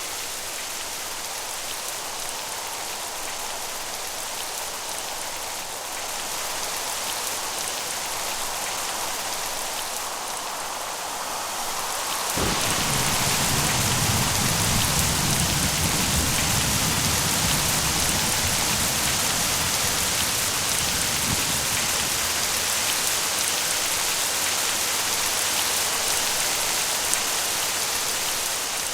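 Steady heavy rain falling, joined about twelve seconds in by a sudden thunderclap that rolls on as a deep rumble for around ten seconds before fading; the rain sounds heavier from then on.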